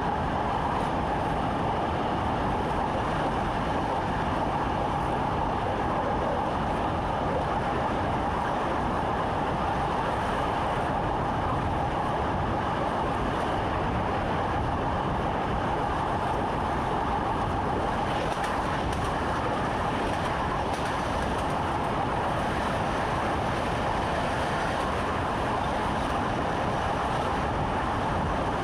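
Train running at a steady speed, heard from inside the driver's cab: an even, unbroken running noise of the train on the track.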